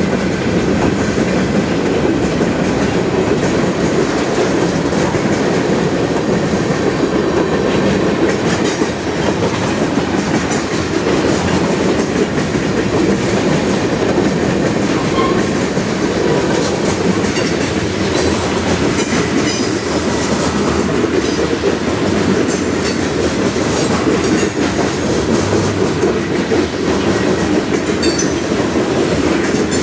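Freight cars of a long mixed freight train (gondolas, covered hoppers, tank cars) rolling past at speed: a steady loud rumble of steel wheels on rail, with scattered sharp clicks.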